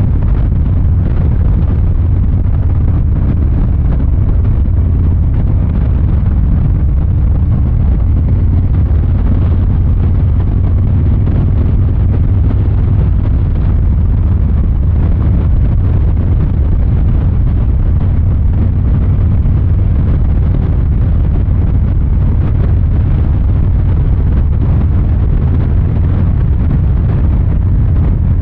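Exhaust of a 2023 Harley-Davidson Fat Boy 114's Milwaukee-Eight 114 V-twin, running steadily with a deep, even note, with some wind on the microphone.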